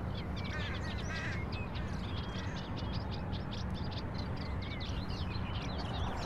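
Small birds chirping, many quick high calls overlapping, over a steady low background hum.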